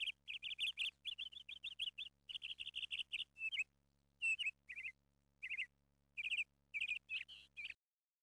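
Small bird chirping in quick runs of high notes, a dozen or so short bursts separated by brief pauses, stopping abruptly near the end.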